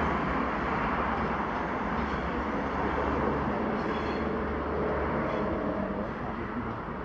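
ScotRail Class 320 electric multiple-unit train running away down the line, a steady noise that fades slowly near the end.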